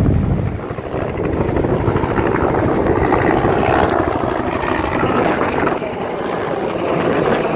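Helicopter flying nearby, its rotors beating in a fast, steady chop.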